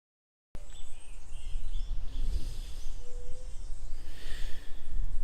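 Wind buffeting the microphone as a fluctuating low rumble, with scattered bird chirps over it; the sound cuts in suddenly about half a second in after dead silence.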